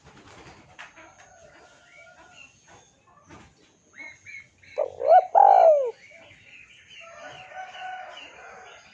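Spotted dove (tekukur) cooing: a loud burst of a few arching coo notes about five seconds in, over faint chirping of small birds.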